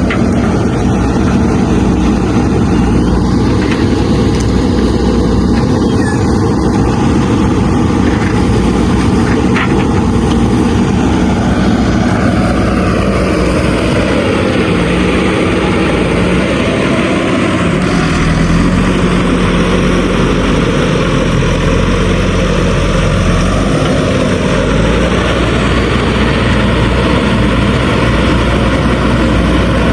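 Diesel engine of a JCB 3DX backhoe loader running steadily while working. Its note shifts between about 12 and 18 seconds in as the load changes.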